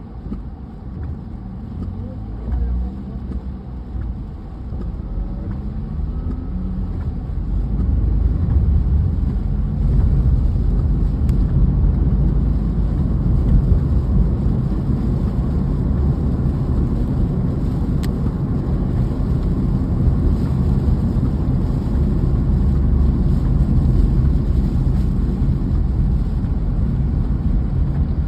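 Car driving: a low engine and road rumble, the engine pitch rising over the first several seconds and the noise growing louder about eight seconds in, then holding steady.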